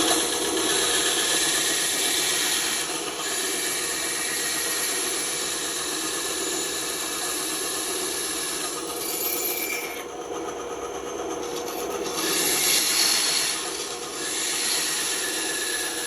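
Band saw running and cutting through wood: a steady machine hum under the hiss of the blade in the wood. The cutting hiss eases off about ten seconds in and comes back loudest a couple of seconds later.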